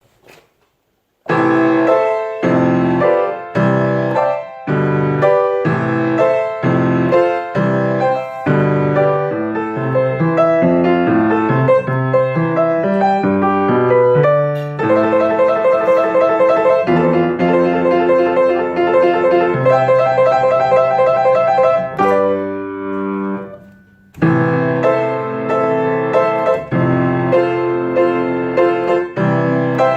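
Solo piano playing a chordal arrangement, starting about a second in. A little past twenty seconds a chord is left to ring and die away, then the playing picks up again.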